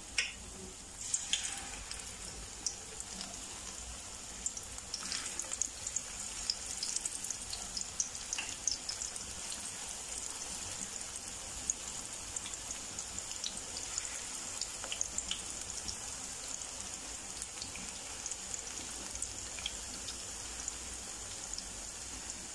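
Pakoras (spiced gram-flour fritters of onion, cabbage and potato) frying in hot oil: a steady sizzle with scattered crackles and pops, most of the pops in the first half.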